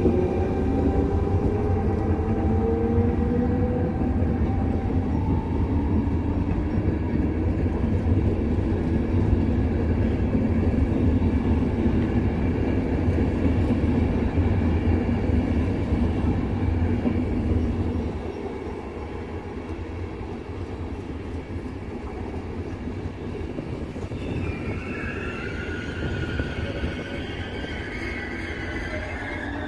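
Trenord push-pull train of double-deck coaches with an E464 electric locomotive pushing at the rear, rolling past: a steady low rumble of wheels on rail with rising tones in the first few seconds, easing off about two-thirds of the way through. Near the end high steady tones come in as the locomotive end goes by.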